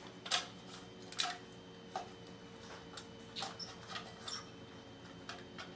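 Light, scattered clicks and taps as the parts of a homemade tin-can Stirling engine are handled and repositioned, over a faint steady hum.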